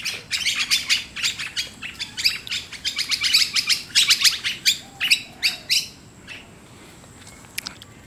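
Small birds chirping in a fast, dense run of short, high calls for about six seconds, then fading to a few faint chirps near the end.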